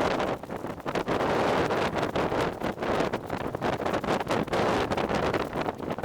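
Wind on the microphone with a quick, irregular run of crunching footsteps in snow.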